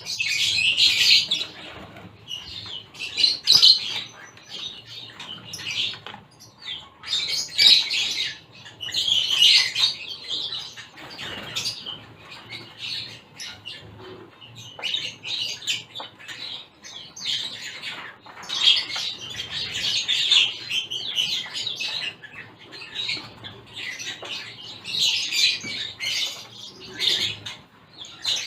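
A mixed group of small aviary finches, zebra finches among them, chirping and calling over one another in clusters every second or two.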